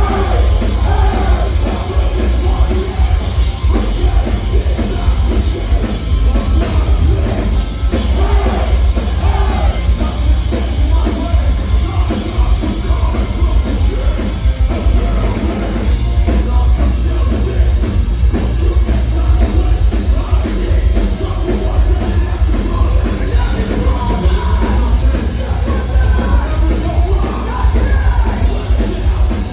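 Live metalcore band playing loudly, with heavy distorted guitars, pounding drums and bass, and shouted vocals, heard through a phone-style audience recording with heavy low end.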